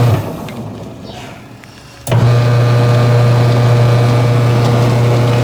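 Washing machine's wash motor driving the impeller through its freshly re-tensioned belt, running with a loud steady hum. It cuts out and coasts down, then starts again abruptly about two seconds in, as the wash cycle pauses and reverses direction. It is running properly now.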